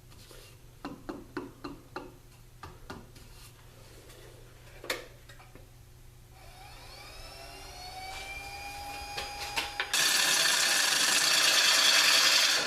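Scattered clicks and knocks, then a Jet mini 1221 variable-speed lathe's motor spinning up with a rising whine that levels off. About ten seconds in, a bowl gouge bites into the dry hard maple bowl blank, a loud steady cutting hiss that stops suddenly at the end.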